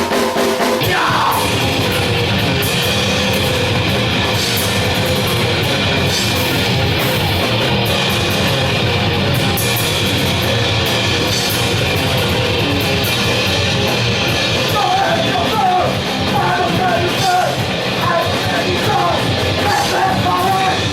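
Grindcore band playing live: distorted guitars, bass and fast drums in a dense, loud wall of sound, with yelled vocals coming in over it in the second half.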